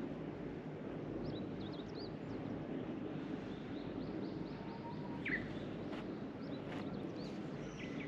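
Wild birds chirping in short, scattered calls, including a quick run of notes about four seconds in and a falling call just after, over a steady low rushing noise.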